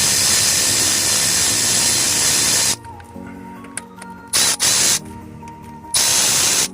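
Air ratchet running with a loud hiss of exhaust air while loosening rocker arm bolts on a Chevrolet Silverado cylinder head. One long run stops about three seconds in, then come three short bursts near the end.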